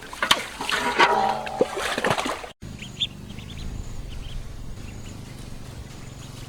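Waterfowl calling with stacked, nasal quacking tones amid clicks and knocks for about two and a half seconds. A sudden cut follows, then a steady low hum with faint, short high chirps.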